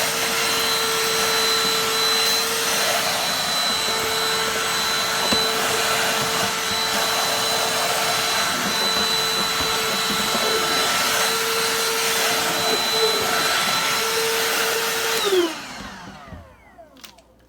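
BLACK+DECKER 20V dustbuster cordless handheld vacuum running steadily with a high motor whine, switched off about fifteen seconds in and winding down with a falling pitch.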